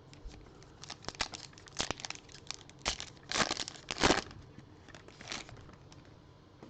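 Trading card pack wrapper crinkling and being torn open, an irregular run of crackles with the loudest tearing about three and a half to four seconds in.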